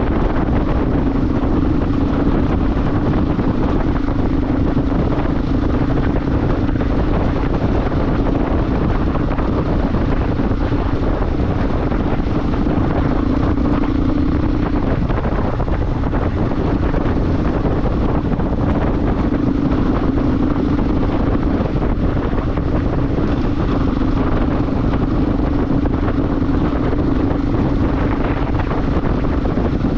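Motorcycle engine running at a steady cruise with heavy wind noise on the microphone; the engine note eases off briefly about halfway through, then picks up again.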